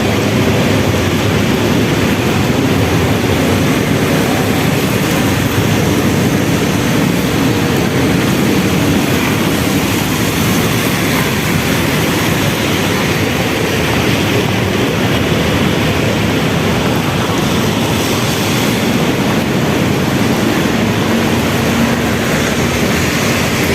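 Steady city street noise in the rain: rain and traffic on wet roads blend into an even hiss and rumble, with a faint engine tone near the end.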